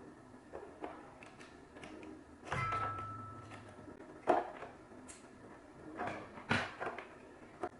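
Household handling sounds: a series of knocks and clicks of objects being set down and moved, with a short low hum starting about two and a half seconds in and a couple of sharper knocks later on.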